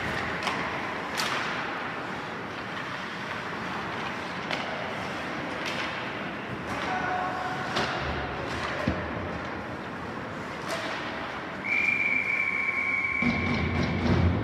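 Ice hockey rink during play: sharp clacks of sticks and puck over a steady hall noise. About twelve seconds in, a steady high whistle-like tone sounds for about two and a half seconds, the loudest sound here.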